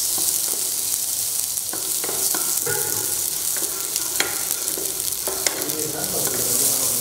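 Ginger-garlic paste sizzling steadily in hot oil in a nonstick kadai, while a wooden spoon stirs it, with a few sharp scrapes and taps of the spoon against the pan.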